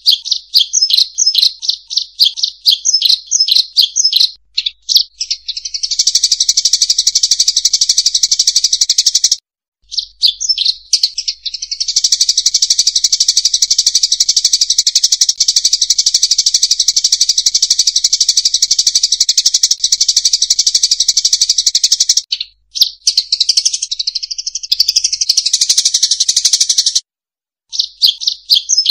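Rice-field munias (emprit sawah) calling, played as a bird-luring recording: rapid high chirps that run into long stretches of dense, continuous chattering, broken by a few short, abrupt gaps.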